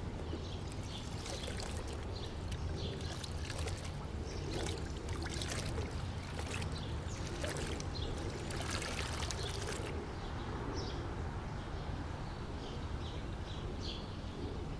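Steady outdoor water noise, trickling or flowing water or light rain, over a low rumble, with short high chirps scattered through it.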